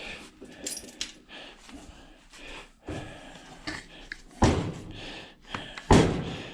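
Metal clinking and knocking as a washing machine motor is handled and worked on with hand tools, with light clicks throughout and two loud knocks about a second and a half apart in the second half.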